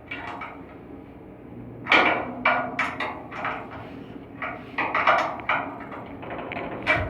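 Irregular knocks and clanks of hand tools working on an air handling unit's blower during a V-belt change, the loudest about two seconds in, over a faint steady hum.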